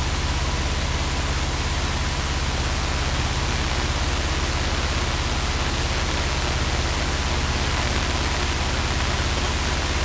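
Steady drone and hiss of a Luscombe light aircraft in flight, heard through the headset audio feed between radio calls, with a faint steady tone above it.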